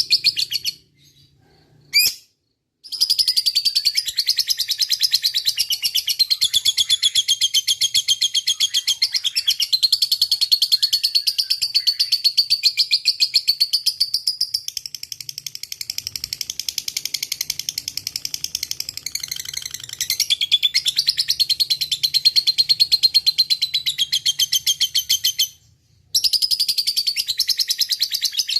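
Lovebird singing its long 'ngekek' song: a rapid, high-pitched chattering trill held for long stretches. It breaks off briefly near the start and again near the end.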